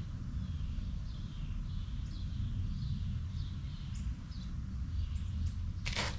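Small birds chirping faintly in the background over a steady low rumble. A burst of rustling and handling noise comes near the end.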